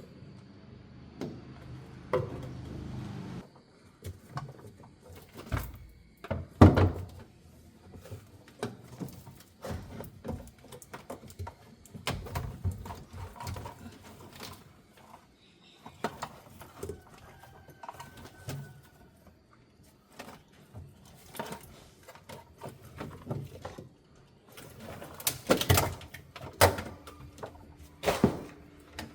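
Irregular knocks, clicks and thuds of car parts and panels being handled and taken apart, the loudest knock a few seconds in and a quick cluster near the end.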